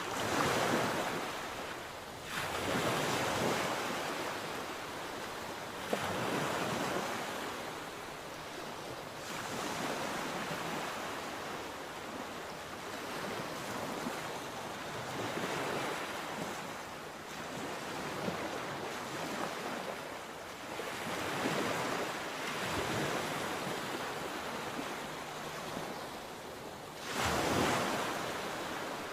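Sea waves breaking and washing up the shore. The surf swells and ebbs every few seconds, with the loudest break near the end.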